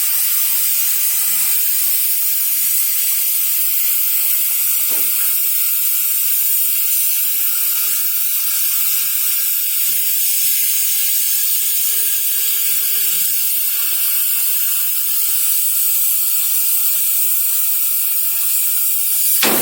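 Oxy-fuel flame-cutting torch on a CNC cutting table, its gas jet hissing steadily and loudly without a break.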